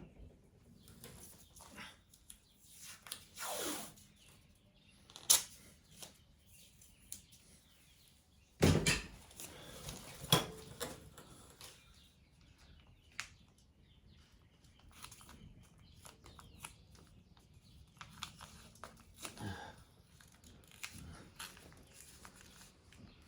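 Scattered knocks and clicks of hand tools and parts being handled at a workbench, a few sharp ones standing out about 5, 9 and 10 seconds in.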